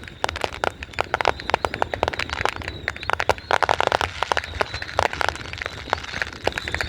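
Fireworks going off: a dense, irregular string of sharp cracks and bangs in quick succession, with no let-up.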